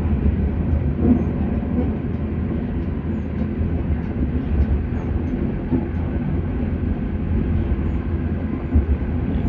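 Auckland AM class electric multiple unit running between stations, heard from inside the carriage: a steady low rumble of wheels on track and running gear.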